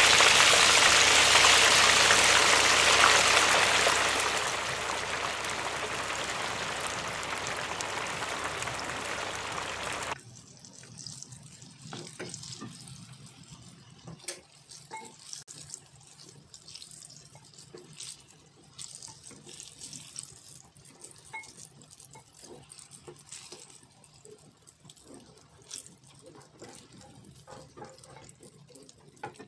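Eggplant chunks hitting hot oil in a wok and sizzling loudly, the sizzle easing after a few seconds and cutting off suddenly about ten seconds in. After that come quieter crackles of the pieces frying, with taps of a wooden spatula against the pan, as the eggplant is half-fried.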